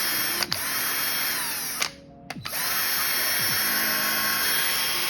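Electric drill running against a glass screen protector, a steady high whine. About two seconds in, the drill winds down and stops for about half a second, then starts again.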